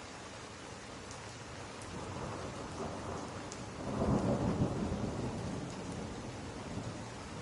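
Steady rain with a rumble of thunder that builds about two seconds in, peaks around the middle and slowly dies away.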